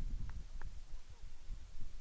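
Wind buffeting the microphone outdoors as an uneven low rumble, with a couple of faint short sounds in the first second.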